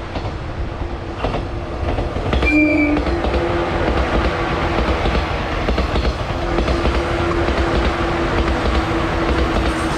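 JR 185 series electric train passing close by, with a steady rumble and the wheels clattering over the rail joints in repeated clicks. A brief whistle-like tone sounds about two and a half seconds in, and a steady hum runs under the clatter in the second half.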